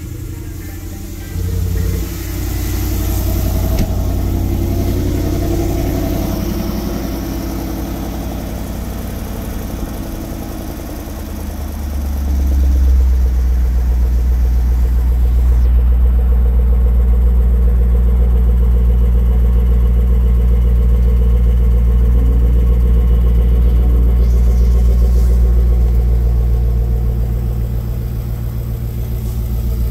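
2020 Jaguar F-Pace SVR's supercharged 5.0-litre V8 running at idle after a cold start. The drone steps up about a second and a half in and grows louder and deeper about twelve seconds in, dipping briefly near the end.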